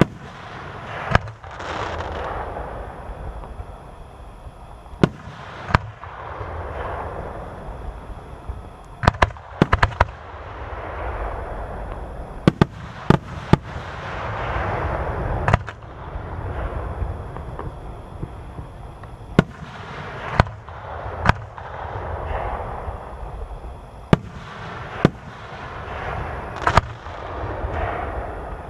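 Aerial fireworks display: a long string of sharp shell bursts, some single and some in quick clusters of two or three, over swells of rushing, hissing noise between the bangs.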